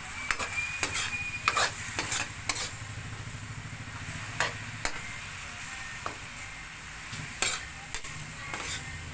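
Beef pieces sizzling in a wok while a metal spoon stirs them, scraping and clinking against the pan in sharp knocks, most of them in the first three seconds.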